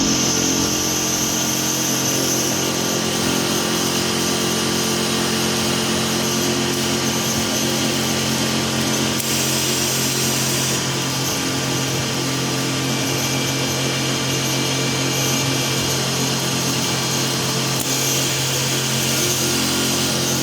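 CNC automatic-feed wood lathe running steadily: a constant motor hum with a dense hiss over it, shifting slightly in the high band about nine to eleven seconds in.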